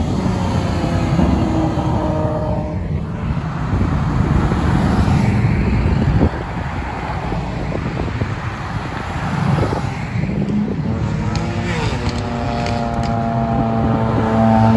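Sports car engines passing one after another: an engine note drops away at the start, then from about eleven seconds in, engine notes climb in pitch as the next cars accelerate past.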